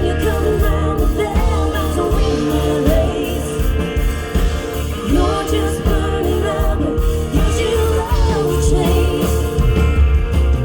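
Live band music with a woman singing over a heavy, steady bass beat.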